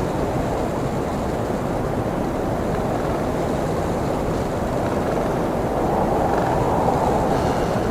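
Strong blizzard wind blowing steadily, a deep rushing noise that swells a little louder about six seconds in.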